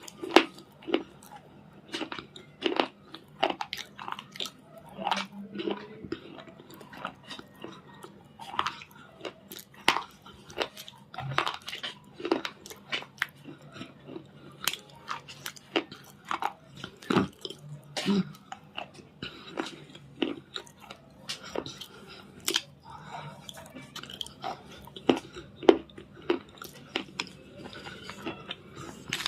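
Red cube-shaped crunch 'stones' being bitten and chewed: a continuous run of sharp, dry crunches and cracks at irregular intervals.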